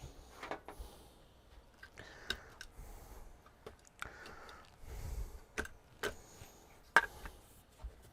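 Handling noises from an LCD TV being taken apart: irregular clicks and knocks of its parts, with a dull thump about five seconds in and the sharpest click about seven seconds in.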